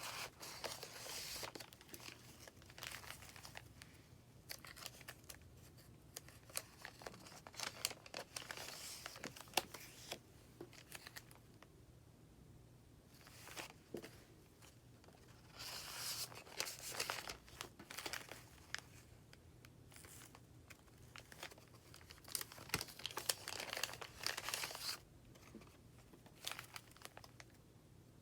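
Paper pages of a handmade junk journal being turned and handled, rustling and crinkling in several bursts with quieter pauses between.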